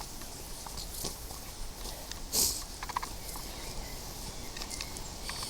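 Footsteps and rustling on a path, with scattered light crunches and one louder short swish about two and a half seconds in.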